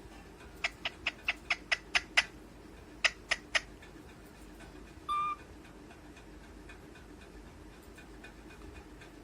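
Pet parrot making a quick run of short, sharp clicking calls, eight speeding up and then three more. About five seconds in it gives one short, high squeak.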